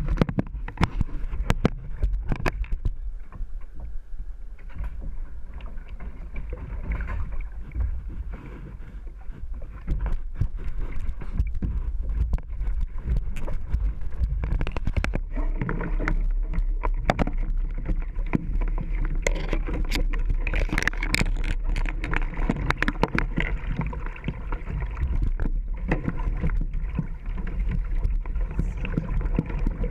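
Creek water rushing through rapids around a kayak, with many sharp splashes and knocks from paddle strokes and the hull, busier from about ten seconds in.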